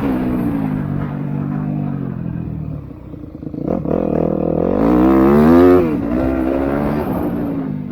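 Motocross bike engines revving up and dropping off as riders work the throttle and gears. The loudest rev climbs in pitch about four to six seconds in, then falls away.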